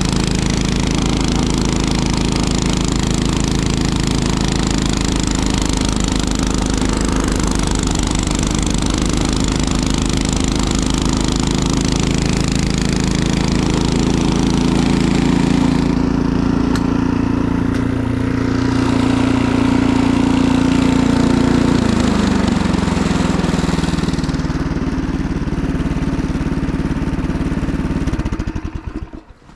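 Single-cylinder engine running steadily, slowing a little about 22 seconds in, then shutting off about a second before the end.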